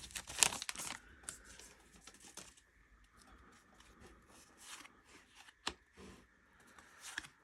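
Paper and foil crinkling for about the first second, then soft rustling and flicking of trading cards handled and sorted by hand, with one sharp tap nearly six seconds in.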